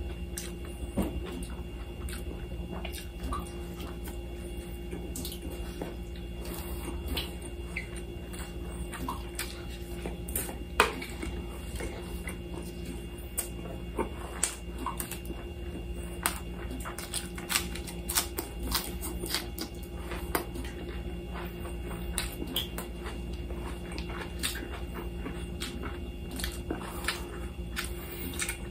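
Close-miked eating sounds: chewing and lip-smacking on grilled lamb chops and rice eaten by hand, a scattering of short wet clicks and smacks. A steady low hum runs underneath.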